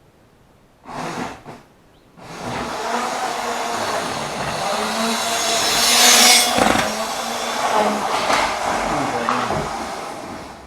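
Model train running on the layout track close by: electric motor hum and wheel rumble that start suddenly about two seconds in, swell to a peak about six seconds in, then ease off near the end. A short rattle comes just before, about a second in.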